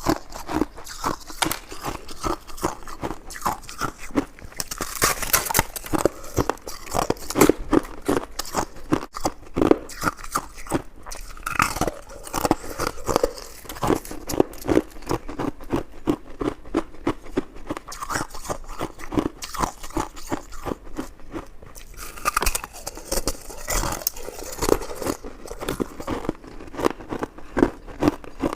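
Close-miked eating: a person biting and chewing soft, chewy fruit jelly buns and filled mochi, with a dense, irregular run of small wet smacks and clicks.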